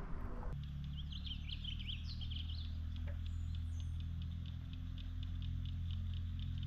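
Birds chirping, first a quick run of chirps and then short high calls repeated evenly, over a steady low rumble.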